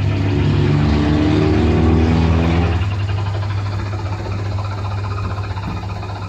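Coin-operated helicopter kiddie ride running, with a steady electric hum. A pitched whine rises for the first three seconds or so, then stops.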